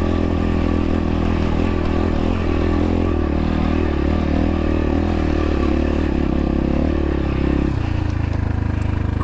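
X-Pro Templar X 250 dirt bike engine pulling hard in first gear up a steep, rocky hill at steady high revs. About eight seconds in, the engine note drops as the throttle eases.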